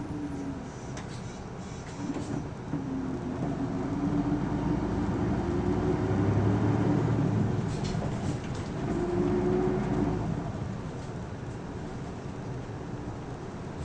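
Isuzu Erga city bus (PKG-LV234L2) and its diesel engine running in service. The engine note rises and falls through acceleration, loudest in the middle, then eases back to a lower drone near the end.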